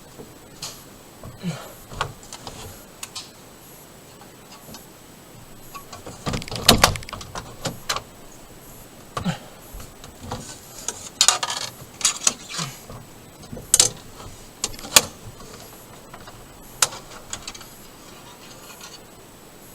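Scattered clicks, rattles and knocks of a door being worked at from inside while a chair jams it shut, with the loudest clusters about six seconds in and again around eleven to fifteen seconds.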